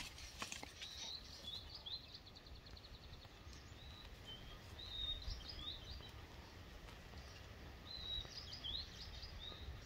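Small birds chirping in short high notes, with a quick trill about a second in and clusters of chirps around the middle and near the end, over a low steady rumble.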